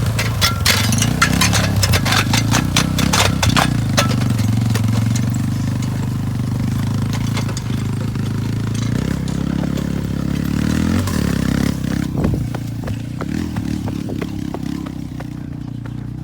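The Yamaha's engine running steadily at low revs, with a burst of rattling, scraping clatter over the first few seconds and a few more knocks later. The engine gets quieter near the end.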